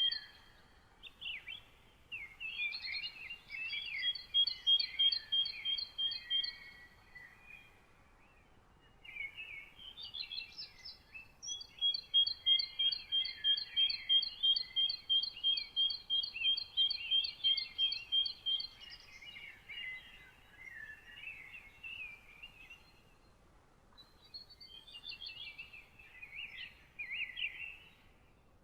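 Several songbirds singing in a morning chorus: one repeats a clear note over and over, about three a second, in two long runs, while others add quick jumbled chirps and warbles, with brief lulls between phrases.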